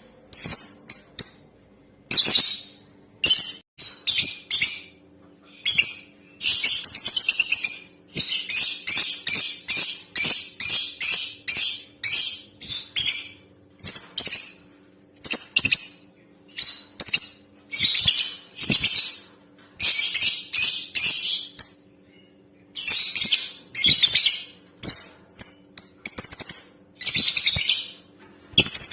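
Female lovebird calling: shrill, rapid chattering in bursts that stop and start, from short chirps to long runs of a couple of seconds, over a faint steady hum.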